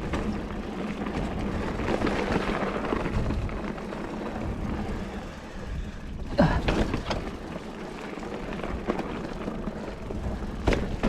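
Giant Fathom hardtail mountain bike riding over a rocky trail: tyre rumble and frame and drivetrain rattle with wind on the microphone. There is a short falling squeal about six seconds in and a sharp knock near the end.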